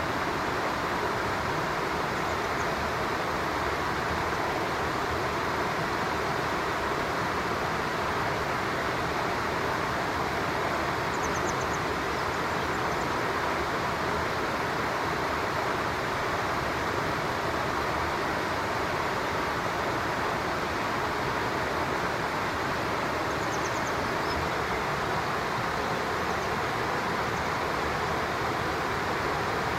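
Steady, even rushing of flowing stream water. Faint, short high-pitched bird chirps come through twice, about a third of the way in and again near the end.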